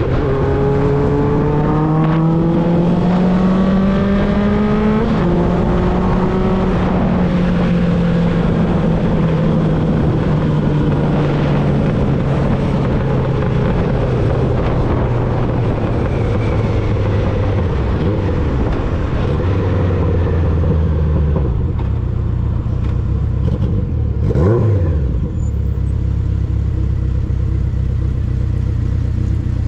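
1995 Honda CB750 Nighthawk's air-cooled inline-four through a Vance & Hines 4-into-1 exhaust, under way: the engine note rises as it accelerates, drops sharply with an upshift about five seconds in, then slowly falls as the bike slows. A brief rising and falling whine comes about three-quarters of the way through, and the engine settles to a steady low note to the end.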